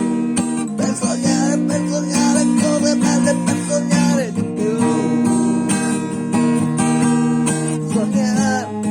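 Acoustic guitar strumming held chords, with a wavering melody line over them; the chord changes about a second in and again near the end.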